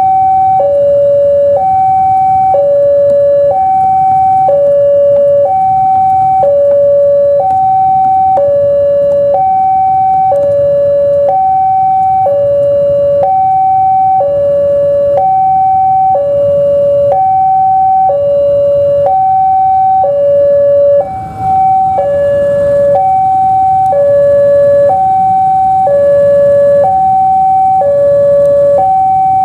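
Railway level-crossing warning alarm sounding its two-tone electronic signal, a higher and a lower tone alternating evenly about once a second, warning that a train is approaching and the barriers are down.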